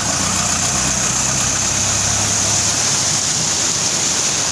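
A motor vehicle engine running steadily at idle, a low hum under a constant high hiss.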